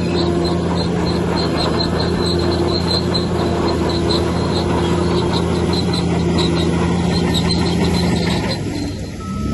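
Bulldozer's diesel engine running steadily under load, with a regular high squeak repeating several times a second from its crawler tracks. The sound drops briefly near the end.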